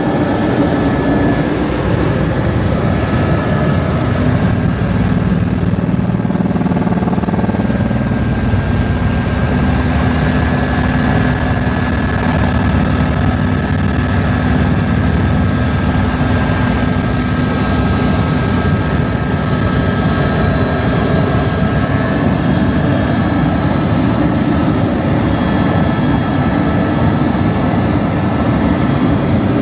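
Helicopter in flight: a loud, steady drone of engine and rotor with a few steady whining tones above it.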